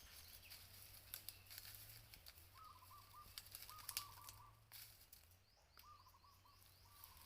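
Near silence with faint bird calls: a short run of rapid notes repeated four times, and a few high, quick falling chirps a little past the middle.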